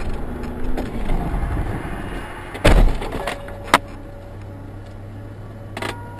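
Road noise of a car recorded by a dashcam, broken by a very loud crash impact about two and a half seconds in, then a sharp knock about a second later and a smaller one near the end.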